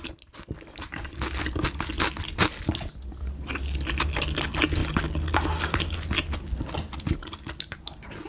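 Close-miked mukbang eating sounds: wet chewing and mouth smacking of soft, saucy mapo tofu with rice and noodles, in a dense run of irregular clicks and squelches.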